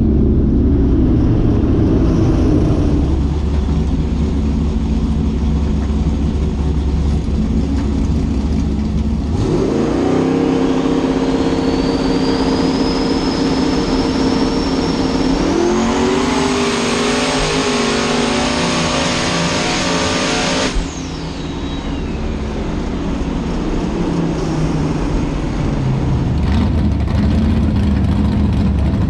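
Drag race car engine: a low rumble, then about nine seconds in the engine builds with a rising whine, and at about sixteen seconds it goes to full throttle for about five seconds before cutting off abruptly.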